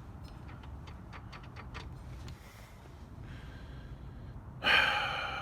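A few light clicks of metal parts being handled, then near the end a sharp metallic clank that rings on briefly and fades.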